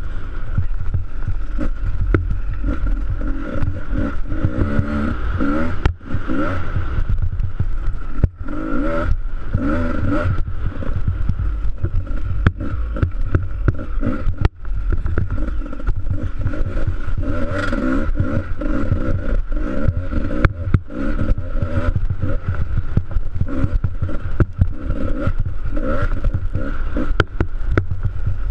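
Enduro motorcycle engine running hard on a snow track, its revs rising and falling with the throttle, with brief drops when the throttle is shut about 6, 8 and 14 seconds in. Wind rumble on the helmet camera runs underneath.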